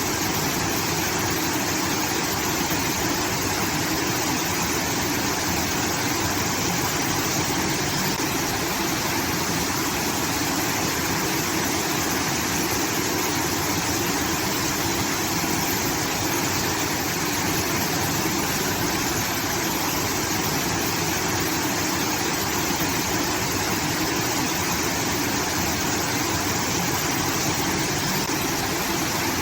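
Water rushing steadily out of a rice-field irrigation outlet, a continuous waterfall-like roar with no breaks.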